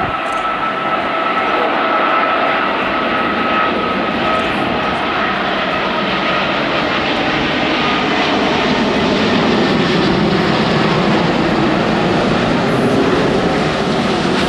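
Airbus A380 jet engines roaring steadily, with a high whine that fades away over the first several seconds while a deeper rumble grows stronger toward the end.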